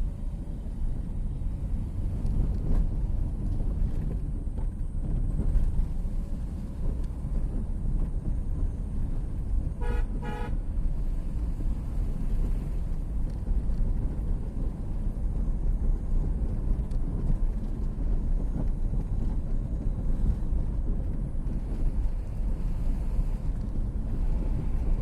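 Car driving with a steady low rumble of engine and road noise, and two short car-horn toots about ten seconds in.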